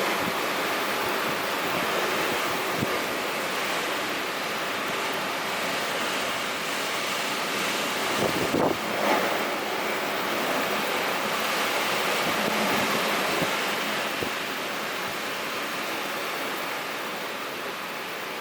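Typhoon wind blowing in a steady rushing noise, swelling briefly in a stronger gust about eight seconds in.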